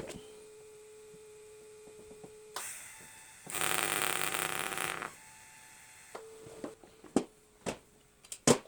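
Welder fusing a steel foot-peg bracket without filler rod: a steady hum, then a burst of welding about a second and a half long in the middle, followed by the hum again and a few sharp clicks near the end.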